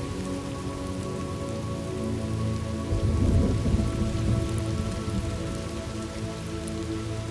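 Steady rain with a low rumble of thunder that swells about three seconds in and dies away over a couple of seconds.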